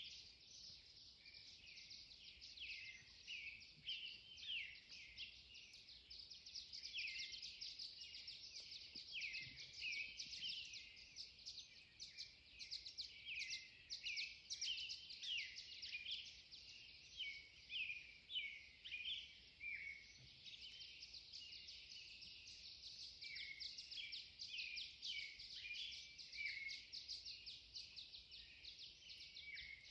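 Faint dawn chorus of many songbirds singing at once: dense, overlapping high chirps and short down-slurred notes with no pause.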